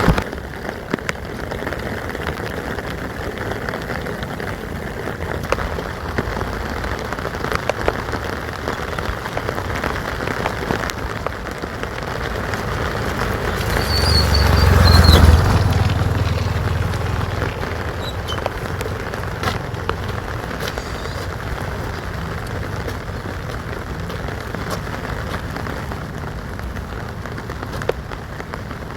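Steady rain falling, with scattered sharp drips. About halfway through, a low rumble swells for a few seconds and then fades.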